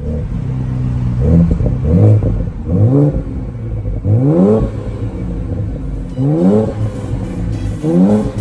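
2020 Ford Explorer ST's twin-turbo 3.0 L EcoBoost V6 being revved through a Kinney's Street Demon true dual performance exhaust. The throttle is blipped about six times, each rev rising and dropping quickly back to idle.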